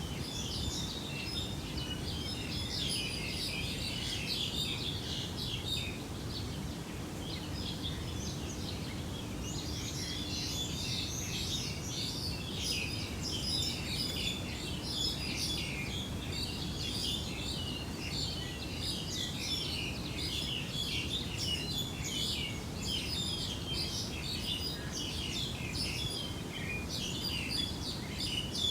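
Many small birds chirping continuously in quick, short calls, over a steady low background rumble.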